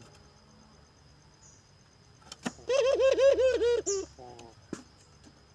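Puter dove calling: a fast run of about seven arching notes lasting just over a second, followed by a shorter, fainter run. A sharp click comes just before the call.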